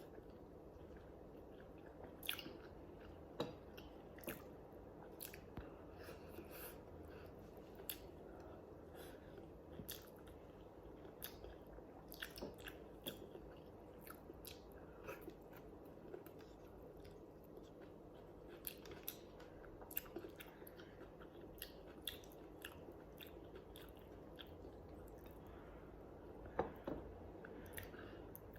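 A person chewing and biting food close to the microphone: irregular, short, moist clicks and crunches, with the loudest cluster near the end.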